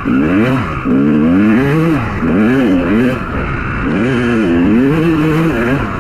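Honda CR250 two-stroke motocross bike engine revving up and down over and over, its pitch rising and falling about once a second.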